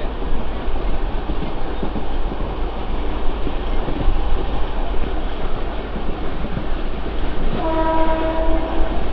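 Mumbai suburban local train running at speed, heard from its open doorway: a steady loud rush of wheels on the rails and moving air. A steady horn note sounds for about a second and a half near the end.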